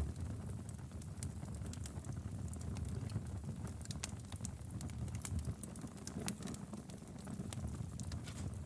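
Wood fire crackling: a steady low rumble of flames with many small, sharp, irregular pops and snaps.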